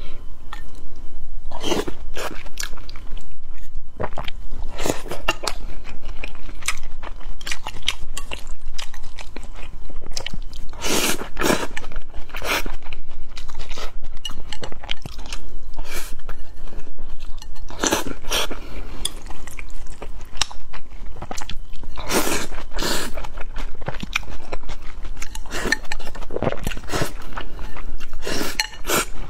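Close-miked chewing and eating of rice with minced pork and glass noodles, picked up by a clip-on microphone, with a spoon and chopsticks scraping and knocking against a glass bowl. Sharp clicks and crunches come irregularly every second or so, a few much louder than the rest.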